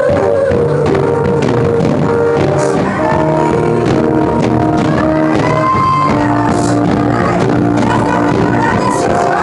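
Live gospel band playing loud, rock-style music, with long held melody notes over guitar and drums.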